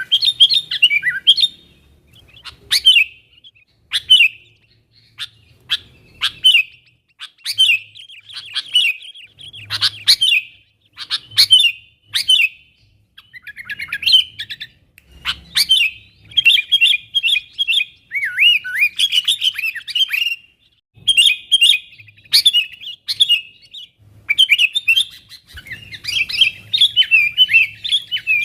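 Sooty-headed bulbul (kutilang) calling over and over: short bursts of quick, liquid chirping notes, repeated every second or two with brief pauses between them. These are contact calls to other bulbuls.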